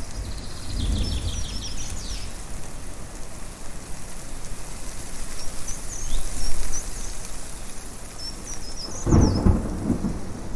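Thunder rumbling, with a soft low roll about a second in and a louder rumble about 9 seconds in, over a steady hiss of wind. Birds chirp repeatedly throughout.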